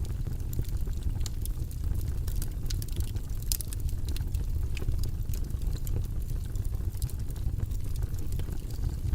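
Steady, deep, low-pitched noise background, with irregular faint light clicks scattered over it.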